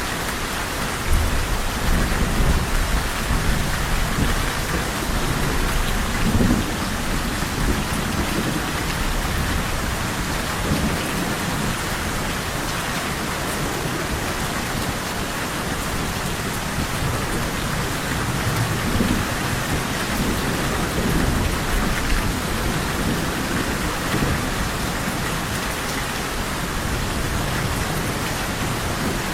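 Steady rain falling, with low rumbles of distant thunder rolling under it: the strongest swell begins about a second in, and another comes around six seconds.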